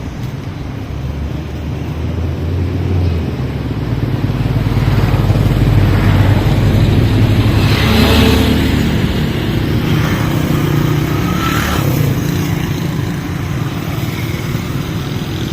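Motor vehicle engine running steadily, growing louder for a few seconds midway, with two brief whooshing swells of road noise.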